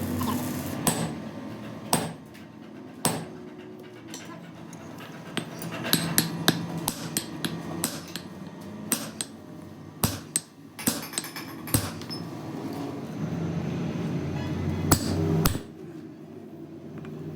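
Hammer blows on metal, sharp and irregularly spaced, over a low steady hum.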